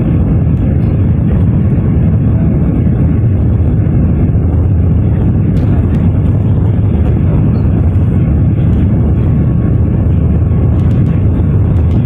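Airliner cabin noise heard from inside the plane shortly after takeoff: the engines and rushing air make a steady, deep rumble.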